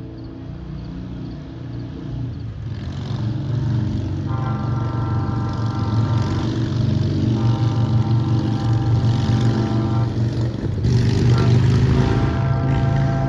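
A train's multi-tone air horn sounds two long blasts and starts a third, over the low rumble of an approaching diesel locomotive that grows louder throughout.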